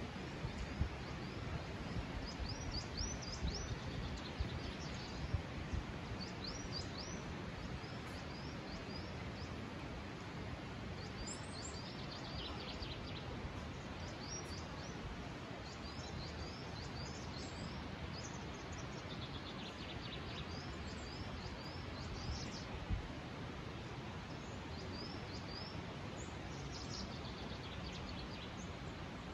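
Small birds chirping in recurring clusters of quick high notes over a steady, even background noise. A few low thumps fall in the first several seconds and once more near the 23-second mark.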